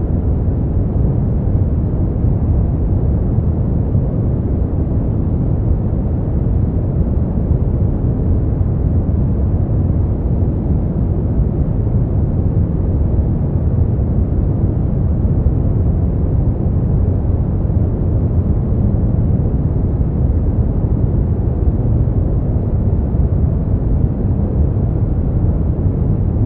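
Brown noise: a steady, deep rumbling hiss, strongest in the lows, with no changes.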